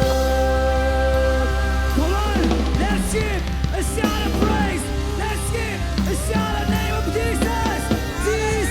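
Full-band rock-style worship music with drum kit: a long held chord at first, then a run of short, bending melodic lines over a steady bass.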